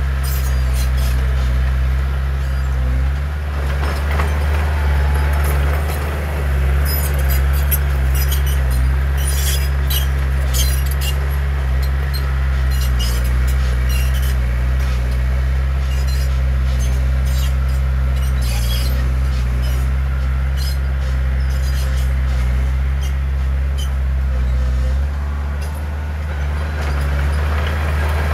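Heavy diesel earthmoving machinery running steadily, with frequent short metallic clanks and rattles over the low engine drone.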